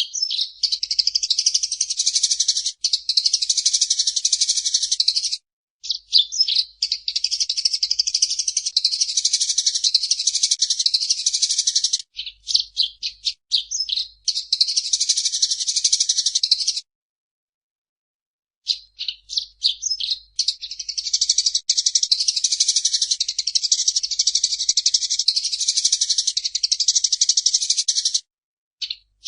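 Eurasian tree sparrow giving long runs of rapid, dense chirping, with a few stretches of separate, spaced-out chirps in between. The chattering breaks off briefly about five seconds in and for about two seconds a little past the middle.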